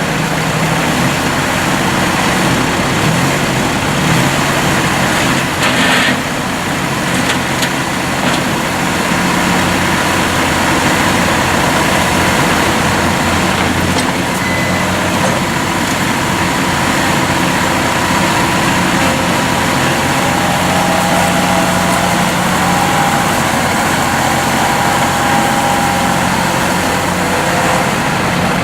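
The 3-cylinder turbo diesel of a New Holland Workmaster 33 compact tractor running steadily, with a faint higher whine that shifts in pitch in the second half.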